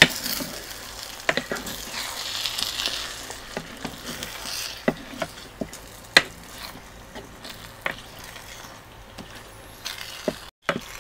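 Oysters and batter sizzling in a non-stick electric pot while a spatula stirs them, with irregular sharp knocks of the spatula against the pot. The sound cuts out briefly near the end.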